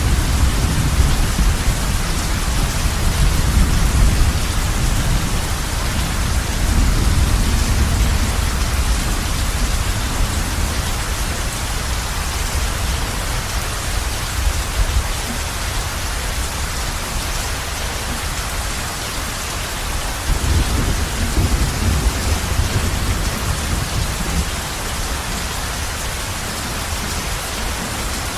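Heavy rain falling steadily on a roof, with low rolling thunder rumbling through the first third and again a little past the middle.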